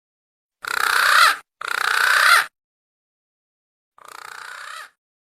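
Punai (green pigeon) lure calls: three rasping, rapidly pulsed calls of just under a second each, separated by dead silence, the third fainter than the first two.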